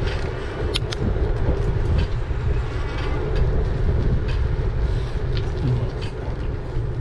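Wind buffeting the microphone and the rumble of tyres on the road from a moving e-bike, with a steady low hum and a few sharp clicks.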